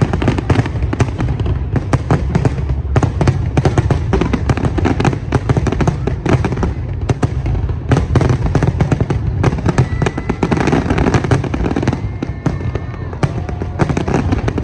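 Aerial fireworks display going off in a dense barrage: rapid, overlapping cracks and bangs over a continuous low booming rumble.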